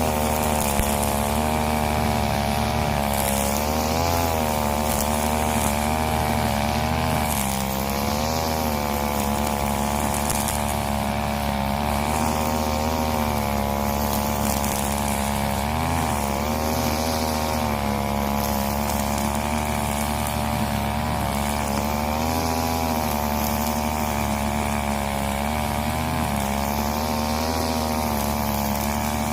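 Husqvarna 541 brush cutter's two-stroke engine running steadily at high revs, its pitch dipping briefly now and then as the blade takes load in the undergrowth.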